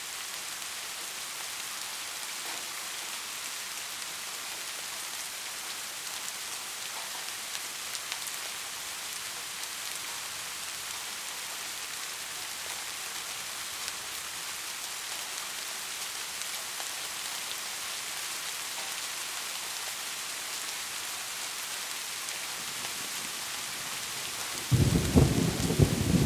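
Steady rain falling, an even hiss throughout. Near the end, a sudden loud crack of thunder breaks in and rolls on as a low, crackling rumble.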